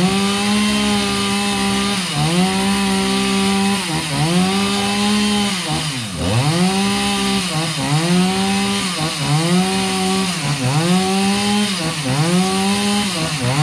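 Chainsaw cutting through the wood of a fallen tree: the engine runs at high revs and its note sags and recovers about every two seconds as the chain bites into the log.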